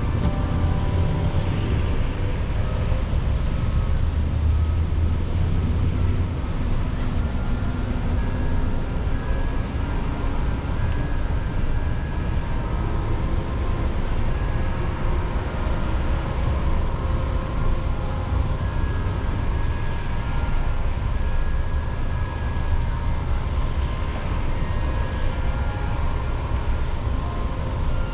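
Car driving through city streets: a steady low rumble of engine and road, with no sudden sounds.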